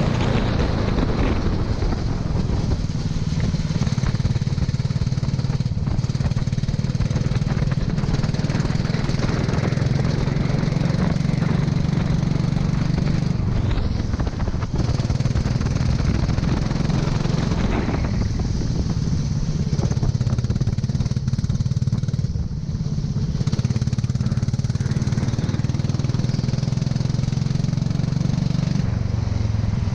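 Go-kart engine running continuously, its pitch falling and rising several times with the throttle through the lap, with a steady hiss over it.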